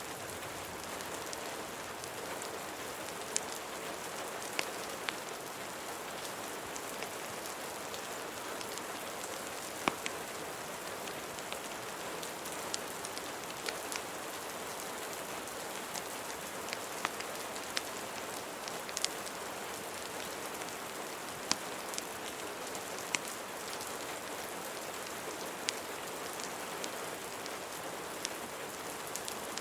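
Steady rain hiss with irregular sharp pops and crackles, about one or two a second: a layered ambience mix of recorded rain and fireplace crackle.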